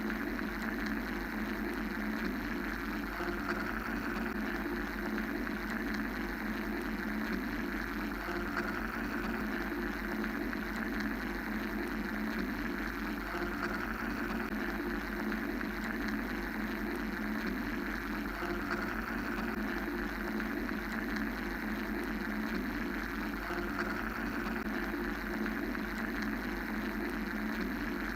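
Steady mechanical white-noise sound effect: a continuous low hum under a band of hiss that slowly swells and fades.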